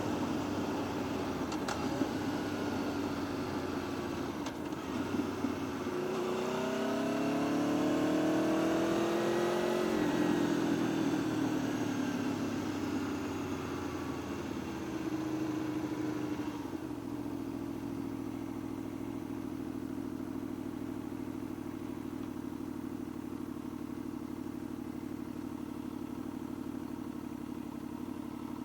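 Motorcycle engine revving up over a few seconds, winding back down, then settling into a steady idle for the second half.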